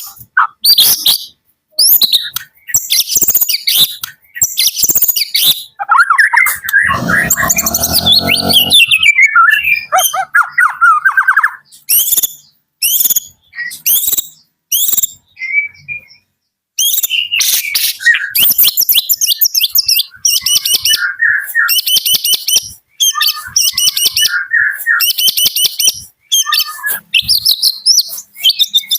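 White-rumped shama (murai batu, Medan type) singing loud, varied phrases of whistles and fast rattling trills, broken by short pauses. A harsher, lower buzzy sound runs for about two seconds around seven seconds in.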